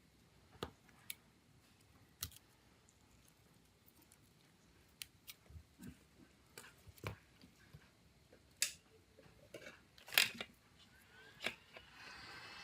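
Irregular small sharp clicks and taps of hand tools and small phone parts being handled, about a dozen of them, the loudest about ten seconds in. Near the end a steady hiss with a faint high whine starts up.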